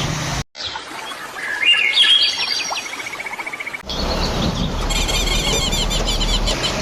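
Small songbirds chirping and trilling, with quick high chirps repeated in runs, over a steady background hiss. The sound drops out briefly about half a second in.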